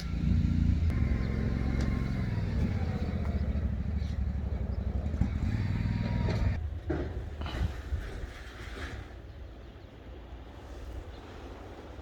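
A motor vehicle's engine running with a low rumble, which drops away about two-thirds of the way through, leaving a quieter steady background.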